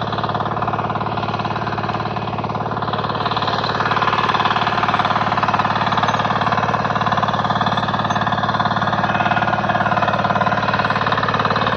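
KisanKraft 406D power tiller's 418 cc single-cylinder diesel engine running steadily with a rapid even chug, a little louder from about four seconds in.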